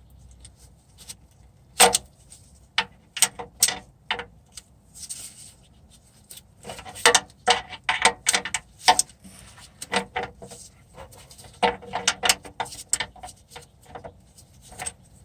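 Irregular sharp metal clicks and clanks from a locking wrench gripping and working a stripped oil drain plug to break it loose. They come in scattered clusters.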